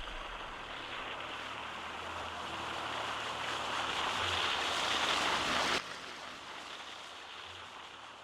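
Steady hiss of heavy rain, swelling for about six seconds, then dropping off suddenly to a quieter hiss that fades away.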